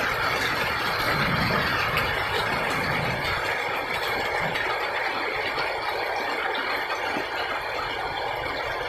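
Heavy monsoon rain falling in a steady, even hiss, with a low rumble underneath that dies away about three and a half seconds in.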